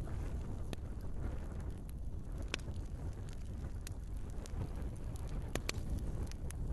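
Wood fire crackling in a fireplace: a steady low rumble of burning logs with a few sharp pops, two in quick succession near the end.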